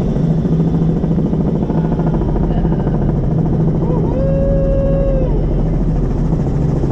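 Helicopter in flight, its turbine and rotor running steadily with a rapid low chop. About four seconds in, a voice holds one drawn-out pitched note for about a second over the engine noise.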